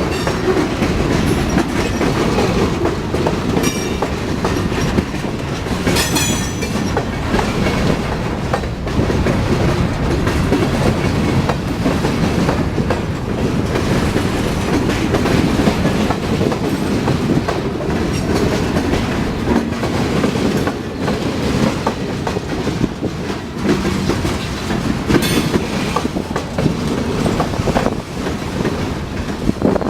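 Train cars rolling past at close range, a steady rumble with the wheels clicking and clacking over rail joints.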